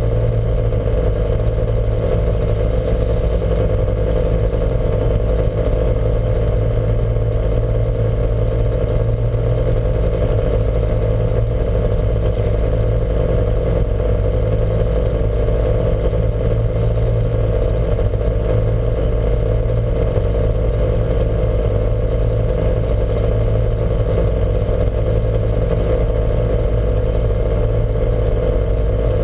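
Lancia Montecarlo's twin-cam four-cylinder engine running at a steady, unchanging speed with no revving, heard from on board the car.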